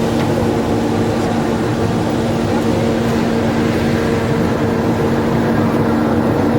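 Passenger ferry's engine running steadily: a constant drone with a steady low hum over rumbling noise.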